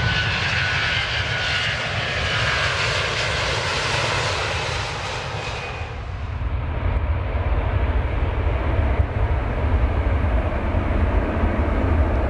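Airliner engines at takeoff power: a high whine and hiss over a steady rumble. About six seconds in the whine falls away, leaving a deep rumble that swells a little.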